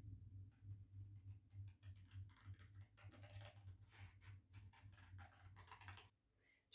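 Scissors snipping through card, a run of faint, quick, irregular cuts over a low steady hum; the sound cuts off shortly before the end.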